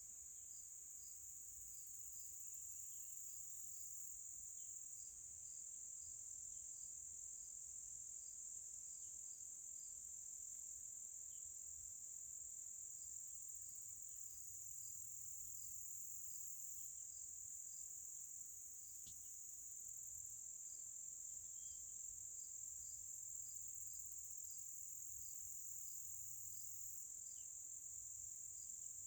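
Insects calling in a nature ambience: a steady high-pitched trill, with a separate regular chirp about twice a second.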